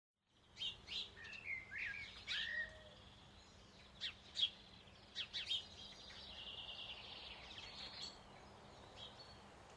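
Birds chirping and calling: a run of short chirps and sliding whistles, a steadier trill about two-thirds of the way in, then fainter scattered calls.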